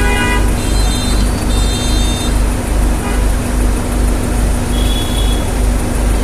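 Excavator's diesel engine running with a steady low throb that pulses about two to three times a second. A few brief high tones sound over it.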